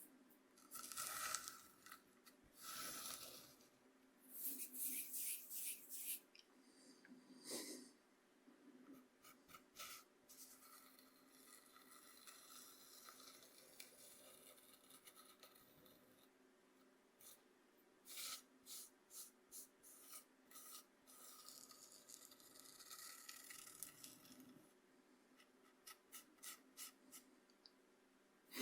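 Coarse cornmeal softly scraped across a bamboo cutting board: quiet scratchy, gritty strokes in irregular bursts, some in quick runs of short strokes.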